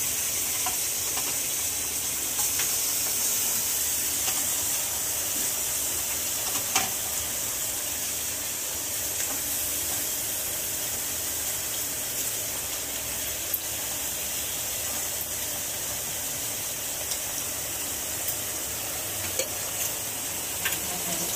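Paya (trotters) frying in onion and spice masala in a pot, sizzling steadily while being stirred, with now and then a sharp click of the spoon against the pot.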